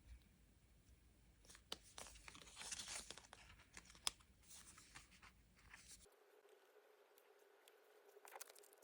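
Faint rustling and tearing of paper and plastic stationery being handled, with a few sharp clicks and a denser crinkling stretch about two to three seconds in. About six seconds in, the background changes abruptly to a faint steady hum.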